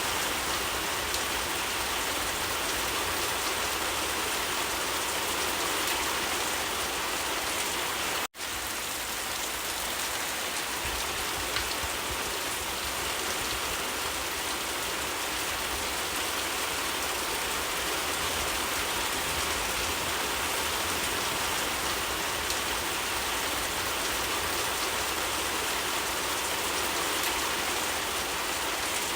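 Steady rain falling in an even hiss, cut by a momentary dropout to silence about eight seconds in.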